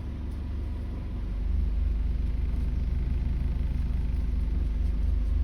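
An engine running steadily, a low rumbling drone.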